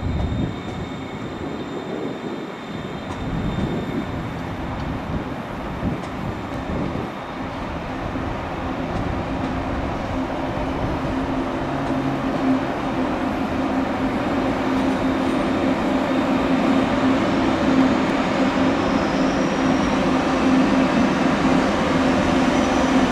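A train moving through a railway station, its running noise slowly building, with a steady hum that grows stronger toward the end.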